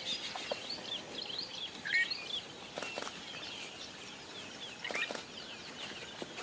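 A flock of birds chirping busily, with one louder short hooked call repeating every two to three seconds and a few brief sharp noises in between.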